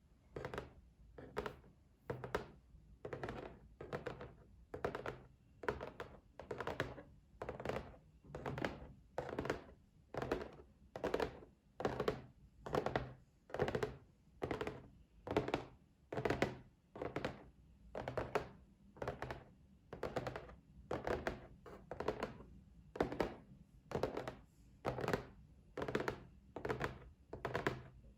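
Tapping on a box: short hollow knocks in quick little rolls, repeating about once a second at an even pace.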